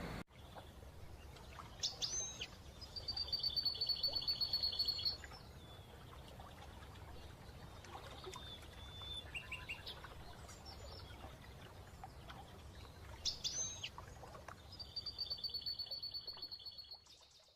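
Small songbirds calling: a sharp chirp followed by a fast, even trill lasting about two seconds, with the pattern heard twice, plus a few short scattered notes in between.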